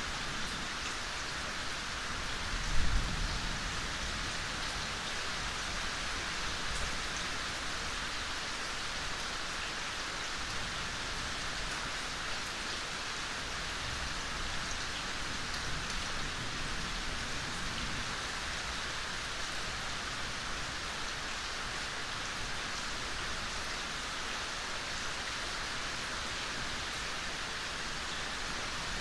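Steady gentle rain falling in a forest, an even hiss of drops on leaves and ground. A brief low thump stands out about three seconds in.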